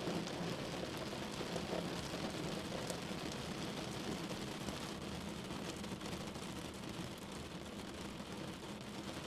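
Steady rain falling on a window: an even hiss with a low rumble underneath and faint scattered ticks of individual drops.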